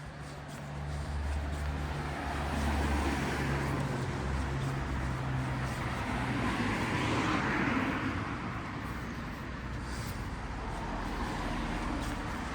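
A motor vehicle passing on the street. Its low engine hum comes first, then the tyre and engine noise swells to a peak a little past halfway and fades.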